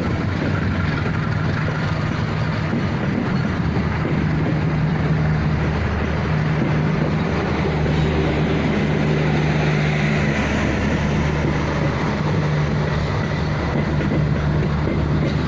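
Train running steadily on the rails, with a constant low engine hum over rolling noise.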